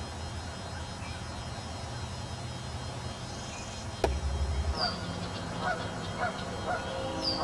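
Birds calling in a series of short, repeated honk-like notes in the second half, with a few high chirps, over a low steady hum. A single sharp knock with a brief low thump, like the camera being handled, comes about four seconds in.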